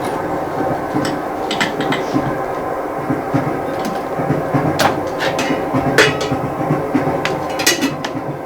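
Steady rumble of a train carriage in motion, with irregular sharp knocks and clinks over it, about eight in all.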